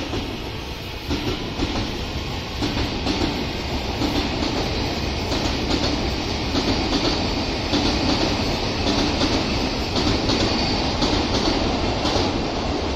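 Odakyu Line commuter electric train passing close by, a steady rumble with repeated clacks of the wheels over rail joints, growing louder over the first few seconds.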